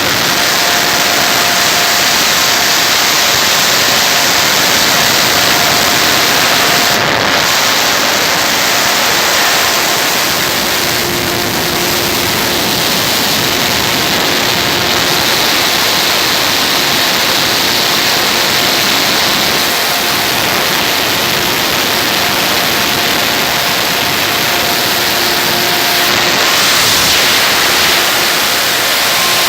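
Peanut dryer with a gas burner running: a steady, loud rushing noise with a faint hum that comes and goes.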